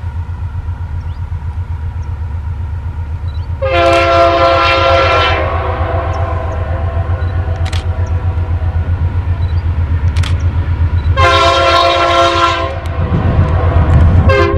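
Freight train hauled by GE AC44i diesel-electric locomotives passing at speed, with a steady rumble that pulses quickly. The locomotive's multi-note air horn sounds two long blasts, about four seconds in and again about eleven seconds in, and a third begins right at the end. The horn is the loudest sound.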